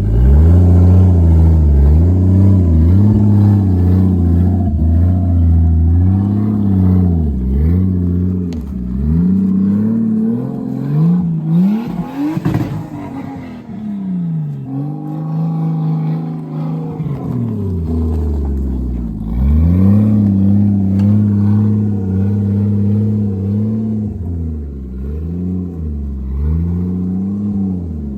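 Lexus drift car's engine revving up and down again and again as the car is driven, with a quieter stretch near the middle where the pitch sweeps up and then falls away.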